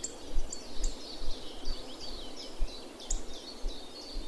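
Small songbirds chirping and twittering, many short quick notes overlapping with no break. Irregular low thumps of wind buffeting the microphone sound underneath.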